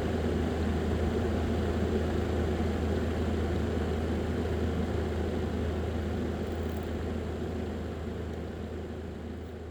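A small electric motor running with a steady low hum and whir, fading gradually over the last few seconds.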